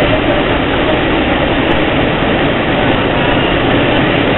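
Steady running noise heard inside a Long Island Rail Road M1 electric multiple-unit car rolling at speed: the even rush of wheels on rails with no clear beat.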